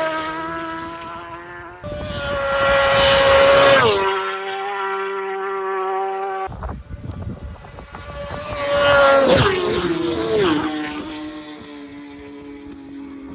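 Superbike road-racing motorcycles passing flat out, three in all. Each engine note rises as the bike approaches and drops sharply in pitch as it goes by: one about four seconds in, then two close together around nine to ten seconds. The sound cuts off abruptly about six and a half seconds in.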